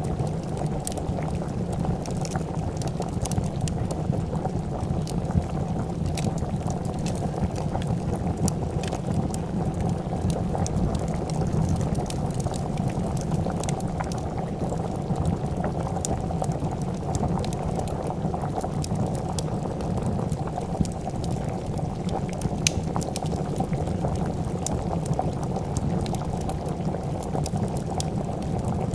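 A pot of soup boiling at a steady rolling bubble, with a wood fire crackling alongside it in frequent small sharp pops.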